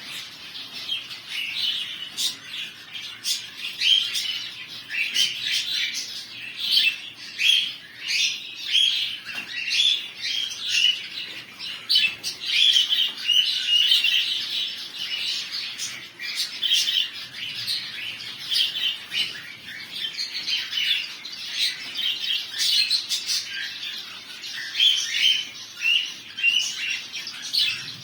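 Budgerigars chirping and chattering continuously, with short sharp clicks mixed in.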